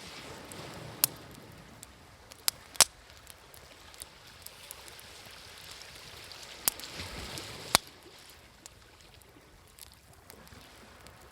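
Wood bonfire crackling with a handful of sharp pops, over waves washing in: one swell near the start and another from about six to eight seconds in.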